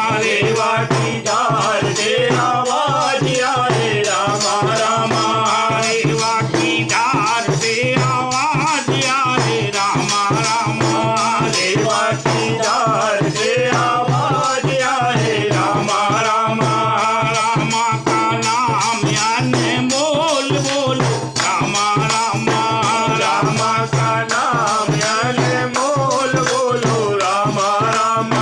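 Hindi devotional bhajan: sung melody over steady, fast shaken-rattle percussion.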